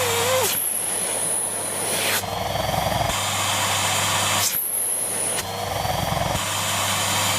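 Siemens Z6.0 2500 W bagged cylinder vacuum cleaner running with the end of its hose being blocked and released by hand. The motor note changes each time, and a high steady whistle sets in three times, about half a second in, around four and a half seconds and again near the end, as the suction relief valve opens under the obstruction.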